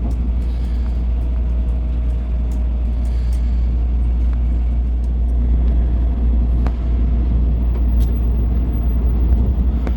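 Steady low rumble and running noise of a Shinkansen train at speed, heard from inside the passenger car, with a few faint clicks.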